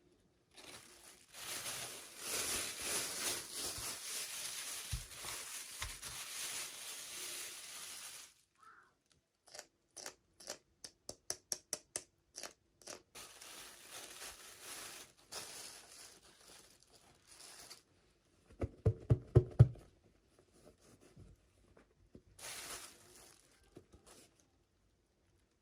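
Plastic toy packaging torn open and crinkled for several seconds, then a quick run of clicks and handling noise. A short cluster of louder knocks comes a few seconds before the end.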